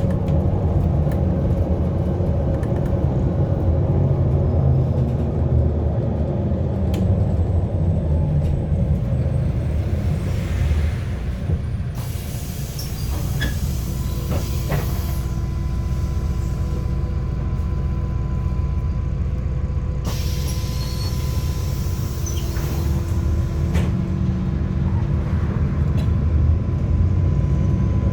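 MAZ-107 city bus heard from inside: the diesel engine rumbles steadily, then eases as the bus slows and stands. Two loud hisses of released compressed air come about halfway in and again some seconds later. Near the end the engine rumble builds again as it pulls away.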